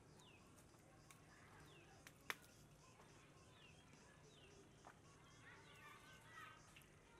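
Faint outdoor ambience with small birds giving short falling chirps again and again, busier near the end, and a single sharp click about two seconds in.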